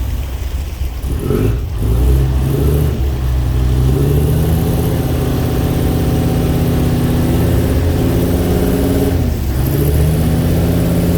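Boat engine running steadily close by, its pitch dipping and picking up again about a second and a half in and once more near the end.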